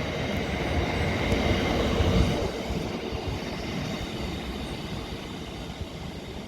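Train rolling past on the rails, loudest about two seconds in, then slowly fading as it moves away.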